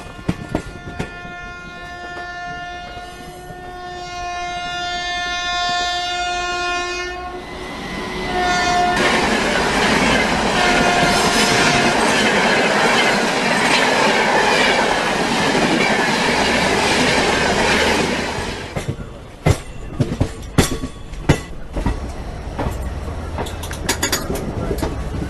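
Train horn held for about seven seconds, growing louder as the train approaches, then a loud rush as the train passes at speed with two short horn blasts. Near the end comes a run of wheel clicks over the rail joints.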